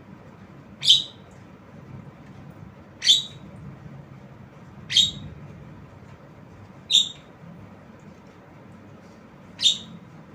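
Javan myna giving a short, sharp, high call five times, about one every two seconds.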